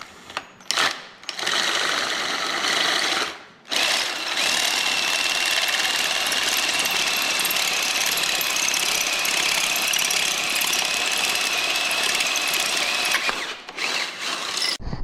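Power drill drilling out a broken bolt: a few short bursts, then a long steady run with a high motor whine for about nine seconds that stops near the end, followed by a couple of brief bursts.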